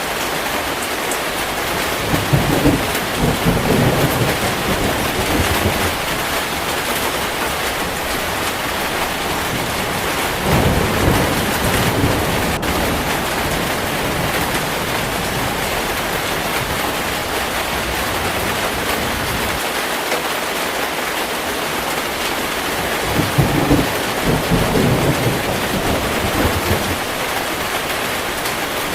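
Heavy rain falling steadily, with three low rolls of thunder: one a couple of seconds in, one about ten seconds in, and one near the end.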